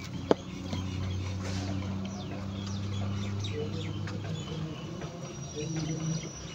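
Small birds chirping over a low steady hum that stops about four seconds in, with a single sharp knock just after the start.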